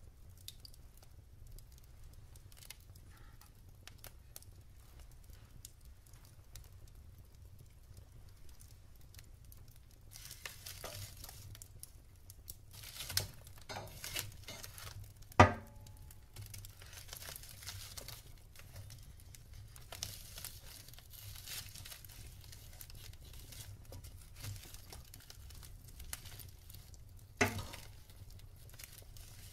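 Wood fire crackling in a fireplace: soft scattered crackles, growing busier with a light hiss from about a third of the way in, and three sharp pops of the wood, the loudest about halfway through.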